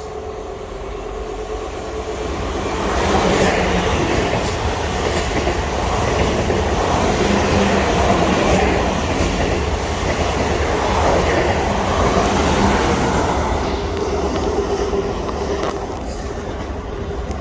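A train passing close by on the line: its noise builds over the first couple of seconds, stays loud for about ten seconds, then eases off near the end.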